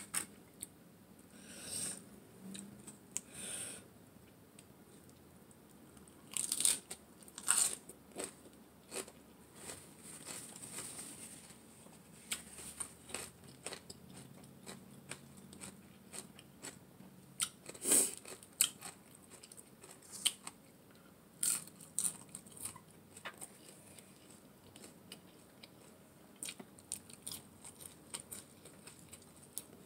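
A person chewing and crunching a mouthful of raw shredded-carrot salad wrapped in a lettuce leaf, with irregular crisp bites and wet chewing sounds; the sharpest crunches come a little after 6 s, near 7.5 s and near 18 s.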